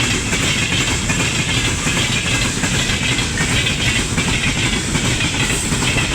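Freight train rolling past, its wheels clattering steadily over the rails with a continuous rumble and hiss.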